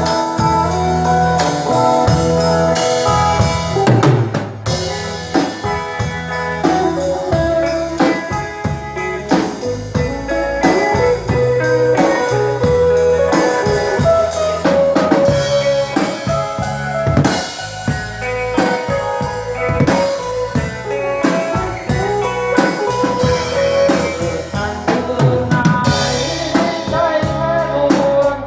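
Live band playing an instrumental passage: a drum kit keeps a steady beat of bass-drum and snare hits under a sustained melodic lead line and bass.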